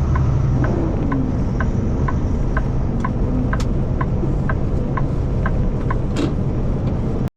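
Kenworth T680 semi truck heard from inside the cab: the diesel engine drones steadily while the turn signal ticks about twice a second.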